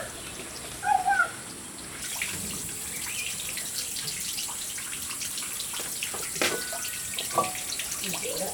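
Water running steadily, a constant splashing hiss starting about two seconds in, with small knocks over it. A couple of short bird calls come just before the water starts.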